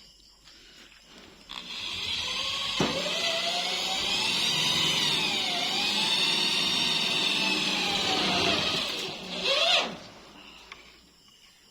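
Handheld electric power tool running for about eight seconds, its motor pitch sagging and rising as it takes load, then cut off with a brief falling spin-down.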